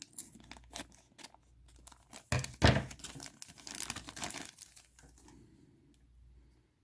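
Plastic bag crinkling and being torn open, a rapid run of sharp crackles with the loudest snap a little before the midpoint, dying down after about five seconds.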